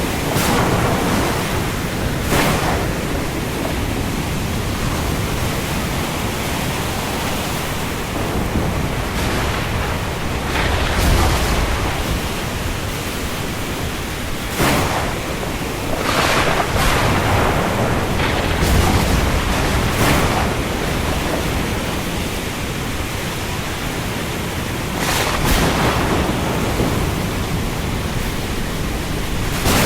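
Steady hiss of heavy rain over a rough sea with waves, punctuated every few seconds by brief louder surges.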